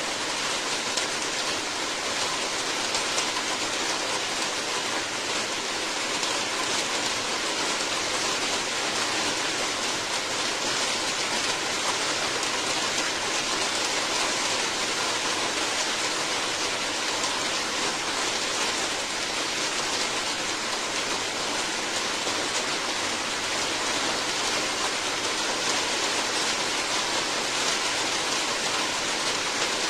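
Steady heavy rain falling, an even dense hiss of drops with no change in intensity.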